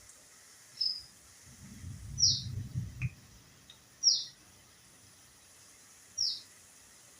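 A bird chirping: four short, high, falling chirps, one about every one and a half to two seconds. A low rumble lasts about a second and a half near the middle.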